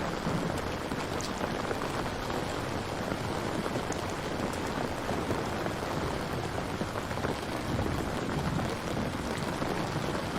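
Steady rain falling, a dense even hiss of drops with scattered individual drop ticks.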